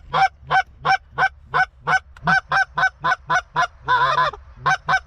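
Goose honking: a rapid, even run of short, loud honks, about three to four a second, with one longer drawn-out honk about four seconds in.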